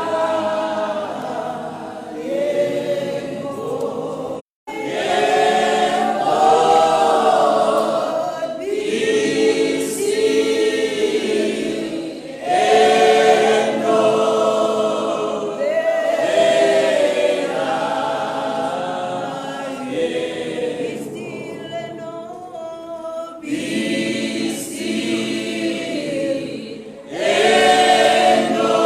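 A group of voices singing a slow gospel hymn together in harmony, in long held phrases. The sound drops out completely for a moment about four and a half seconds in.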